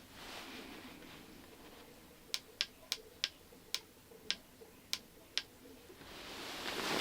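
A run of about eight sharp, irregularly spaced clicks over some three seconds, over a faint hiss that swells near the end.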